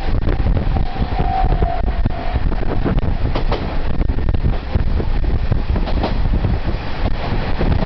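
Diesel railcar running along the line, heard from on board: a steady low rumble of engine and wheels with irregular clicks from the track, and a brief high steady tone about a second in.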